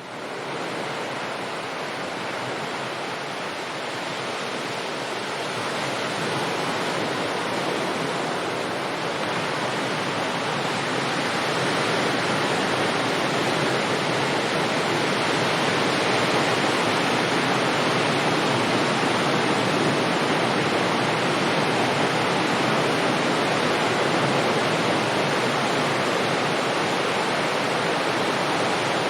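Distant sea waves washing on the shore, a steady dense hiss of surf that fades in at the start and swells slowly louder over the first dozen seconds, without separate crashes.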